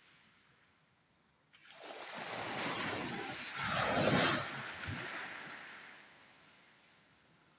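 A single wave breaking on the shore: the rush rises about a second and a half in, peaks near the middle and washes away over the next couple of seconds.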